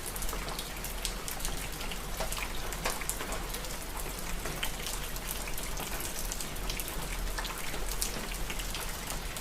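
Steady rain falling on a surface, with many separate drops ticking through an even hiss and a low rumble underneath.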